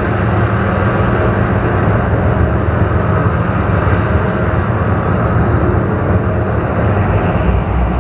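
Ambient electronic drone music from analog synthesizers: a dense, steady low drone with a noisy, hiss-like layer above it.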